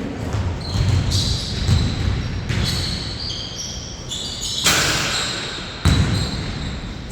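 A basketball bouncing on a court during play, several irregular thuds with the loudest near six seconds in, along with short high squeaks from shoes on the floor.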